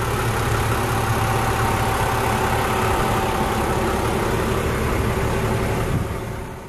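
An off-road SUV's engine idling steadily, fading out near the end.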